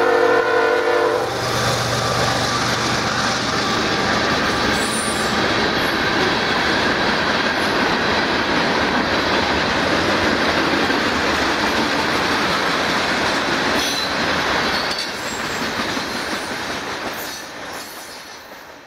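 CSX diesel freight train passing a grade crossing: the locomotive horn ends about a second in, then the cars roll past with steady wheel-on-rail clatter that fades away near the end.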